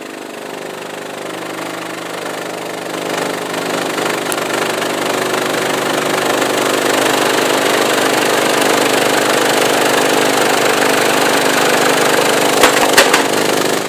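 A subwoofer in free air, driven by a CT Sounds 7000.1 amplifier with a 25 Hz test tone, heard as a loud, steady buzzing drone that grows louder over the first several seconds as the bass knob is turned up. A few sharp rattles and knocks come near the end as loose parts shake off.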